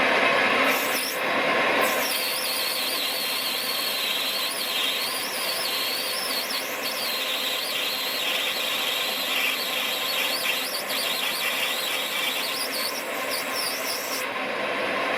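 A machine tool cutting brass bar stock, running with a wavering high-pitched squeal from the cut. The squeal starts about two seconds in and fades out near the end.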